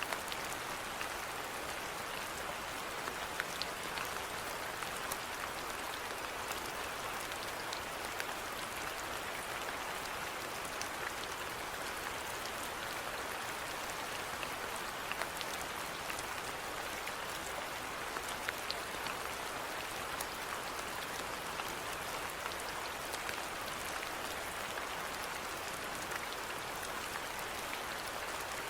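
Steady rainfall: an even hiss with scattered sharp ticks of single drops landing.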